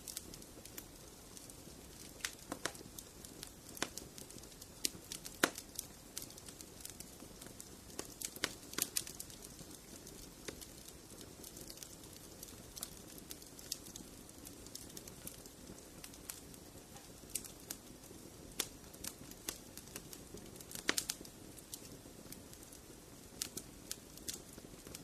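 Wood fire burning in a fireplace: a low steady hiss with irregular sharp crackles and pops, a few of them louder, in brief clusters about a third of the way in and again near the end.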